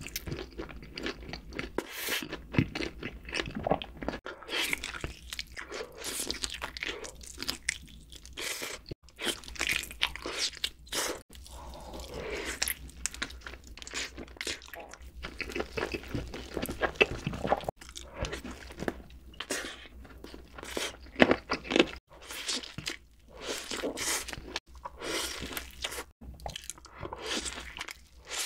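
Close-miked chewing and crunching of BBQ fried chicken, in irregular bites and chews. Near the end comes a bite into a cheeseburger.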